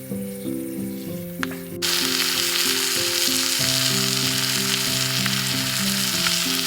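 Food sizzling loudly in a pan over a hot campfire, cutting in suddenly about two seconds in and stopping abruptly near the end, over background music.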